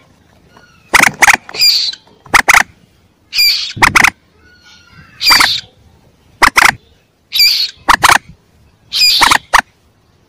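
Common moorhen chick calls from a hunting lure recording: sharp, clipped notes in quick pairs alternating with harsher squawks, repeating about once a second.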